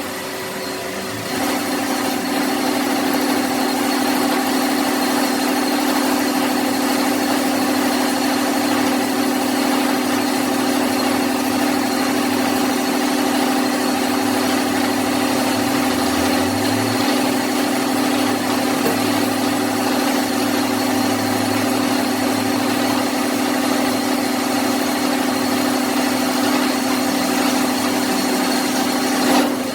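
A machine running steadily with a constant hum, settling in about a second in and stopping near the end.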